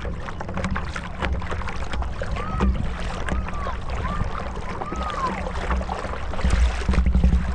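A small boat under way on the water: water splashes and knocks against the hull over a steady low rumble of wind on the microphone. In the middle come four short squeaks that rise and fall in pitch.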